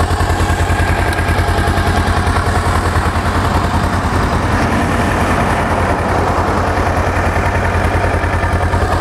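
Kawasaki Versys 650cc liquid-cooled parallel-twin engine idling with a steady, even pulse.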